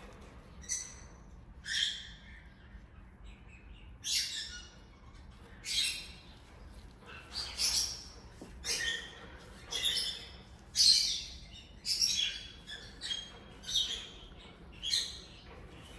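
A bird chirping: short, high-pitched chirps, sparse at first and then coming about twice a second from the middle on.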